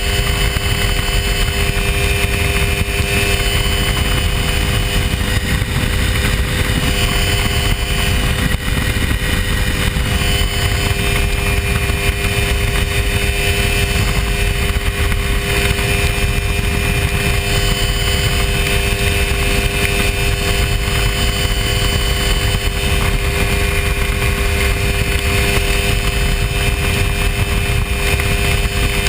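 Hy-Tek Hurricane ultralight aircraft's engine running steadily, a constant drone whose pitch holds throughout, over a heavy low rumble.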